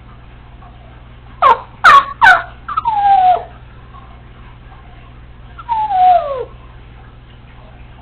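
Congo African grey parrot making a run of falling calls: three quick, sharp downward swoops about a second and a half in, then two longer descending calls around three and six seconds.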